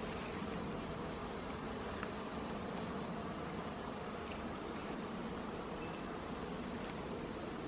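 Honeybees buzzing steadily in a low, even hum around an open hive.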